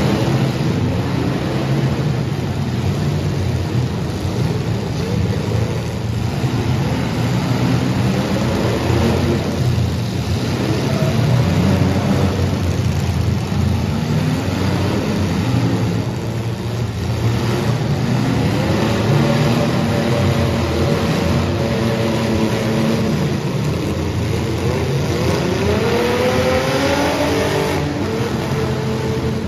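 Several demolition-derby compact cars' engines running hard and revving, their pitch rising and falling with the throttle; one engine revs up sharply near the end.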